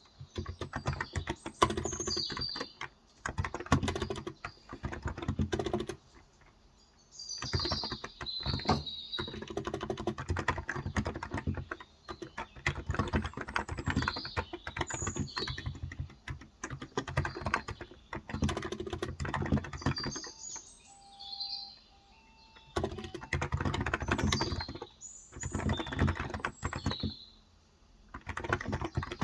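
Fast typing on a Cox Endeavor electro-capacitive (contactless) 35 g tenkeyless keyboard, in runs of several seconds broken by short pauses. Birds chirp in the background.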